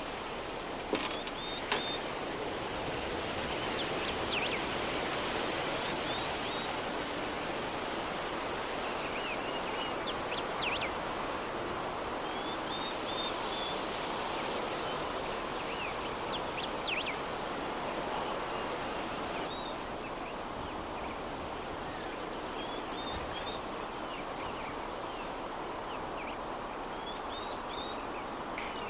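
Steady soft breeze with small groups of birds chirping every few seconds. Two light clicks sound about a second in.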